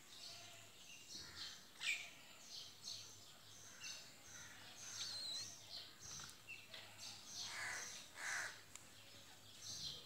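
Soft, scattered bird chirps and twitters, a few of them louder near the end, over faint steady outdoor noise.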